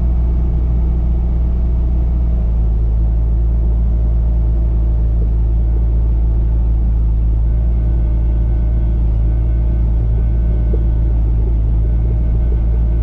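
Bobcat T595 skid steer's diesel engine running steadily under load, a deep unbroken rumble.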